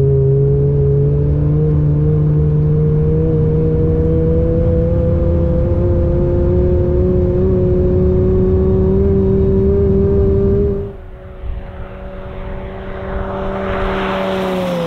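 Twin-turbo Audi R8 V10 engine under sustained full acceleration, heard from inside the cabin, its pitch rising slowly as speed climbs. About eleven seconds in it drops away suddenly to the car heard from outside, its engine and a rushing noise growing louder as it approaches.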